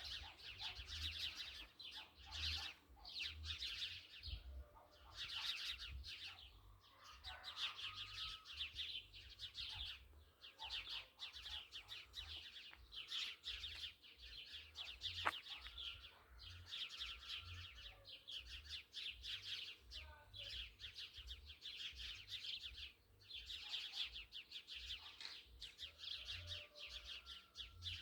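Many small birds chirping and twittering together in a dense, continuous chorus of rapid trills, with a low rumble underneath and one sharp click a little past halfway.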